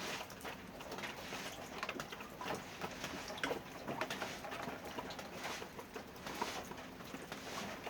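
Poultry calling: chickens clucking, with cooing bird calls and many short clicks and scratches mixed in.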